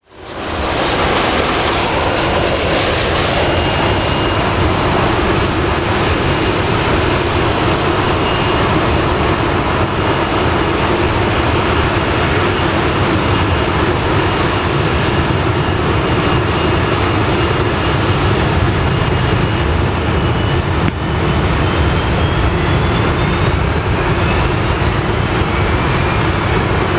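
Boeing 737-800's CFM56-7B turbofan jet engines running loud and steady: a dense rush with a thin high whine over it, and a faint rising whine near the end.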